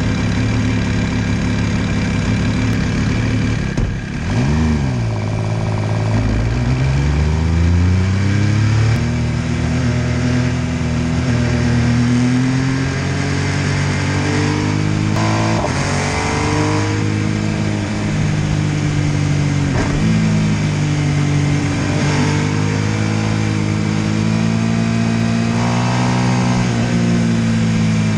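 MV Agusta F3 800's three-cylinder engine on the move. It holds steady at first and gives a quick rev blip about four seconds in. Then it pulls up through the revs, and its pitch rises and falls several times with throttle and gear changes.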